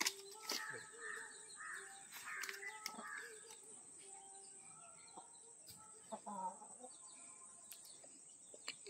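Faint bird calls, crow-like caws, over a quiet background, with a few light clicks scattered through.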